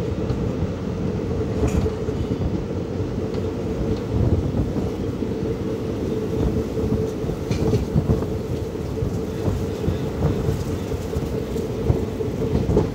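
Indian Railways passenger coach running at speed, heard from on board: a steady rumble of wheels on rails and a steady hum, with a few faint clicks as the wheels pass over rail joints.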